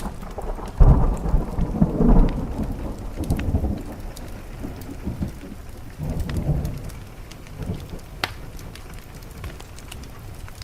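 Thunder rolling over steady rain: a loud low rumble breaks about a second in and dies away over a few seconds, with a smaller rumble later. Occasional sharp clicks sound through the rain.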